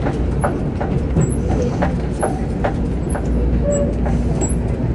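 Passenger carriage of a Sri Lankan express train running on the rails, heard from inside the coach. A steady low rumble is broken by irregular sharp clicks and rattles from the wheels and coupling gear.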